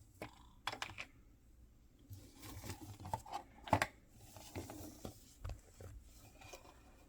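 Mystery-box packaging handled and torn open by hand: a string of small clicks and taps with rustling and tearing, and the sharpest snap about halfway through.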